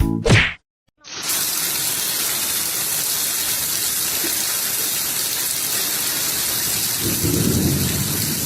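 Music cuts off, and after a brief silence a steady rushing noise of water begins about a second in and holds without a break, with a short low-pitched sound mixed in near the end.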